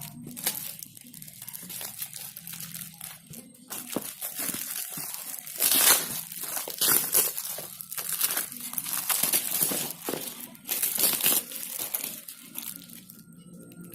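Packaging being crumpled and torn open by hand, in irregular bursts of crinkling and tearing, densest in the middle and tailing off near the end.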